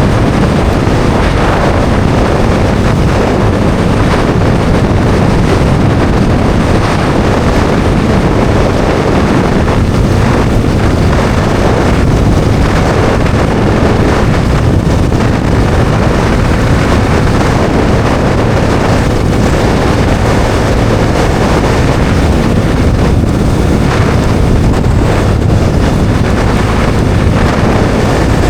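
Bajaj Dominar 400's single-cylinder engine running steadily at cruising speed, nearly buried under loud wind rush on the microphone.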